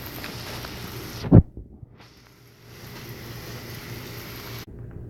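A steady hiss, broken by a single loud low thump about a second and a half in and cut off abruptly near the end.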